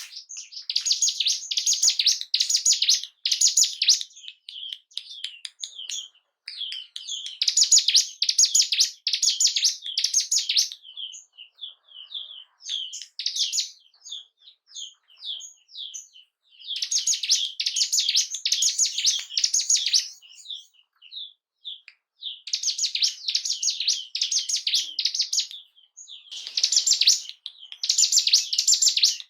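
Ciblek gunung, a prinia, singing. It gives bursts of rapid high chirping a few seconds long, with short runs of single notes between them.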